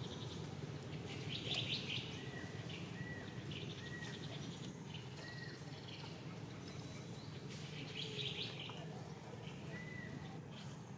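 Birds calling: short high chirps repeated at uneven intervals, with a few brief trills, over a steady low hum.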